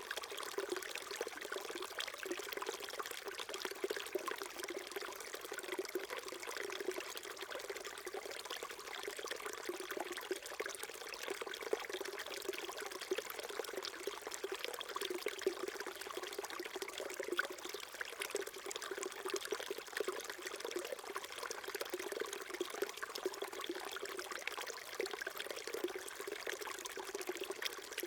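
Small stream trickling and babbling in a steady, unbroken flow.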